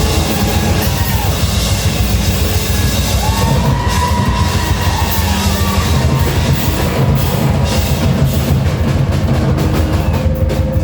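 Live rock band playing loudly with distorted guitars, bass and busy drums, an instrumental stretch near the end of a punk-rock song.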